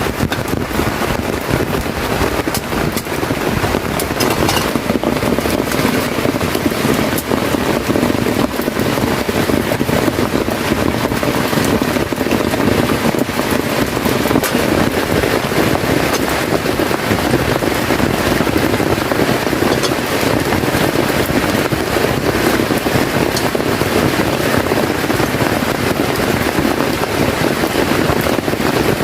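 Heavy rain falling steadily, a dense hiss with many small drop ticks throughout.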